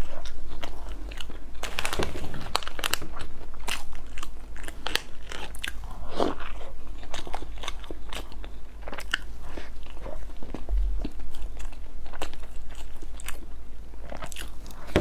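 Close-miked eating sounds: biting into and chewing a soft jujube sponge cake dunked in milk, a steady run of small mouth clicks.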